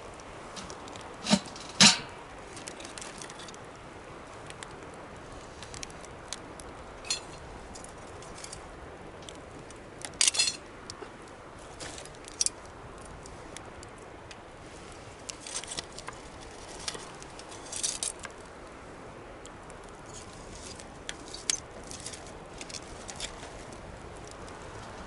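Campfire of burning wood crackling: a steady low hiss with irregular sharp pops and snaps, the loudest two close together about two seconds in.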